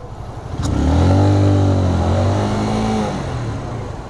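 A road vehicle's engine pulls away under acceleration about a second in, its pitch arching up and then easing off after about three seconds, over steady wind and traffic noise.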